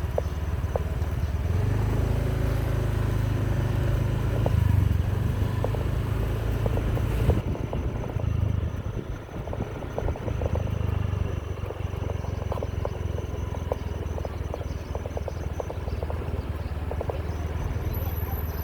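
Motorcycle engine running steadily on the move, with road noise. The engine hum grows louder about two seconds in and eases off about seven seconds in.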